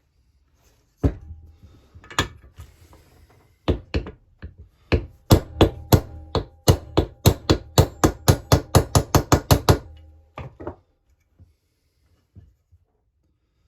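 Hammer blows on a bored-out bar used as a drift, knocking a crankcase oil seal home in a Husqvarna 346XP chainsaw crankcase. A few spaced taps, then a fast even run of about four to five blows a second that stops about ten seconds in, with a faint metallic ring.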